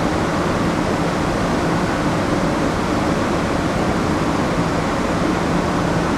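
Steady rushing air and low hum of a moored ship's ventilation and onboard machinery, unchanging throughout.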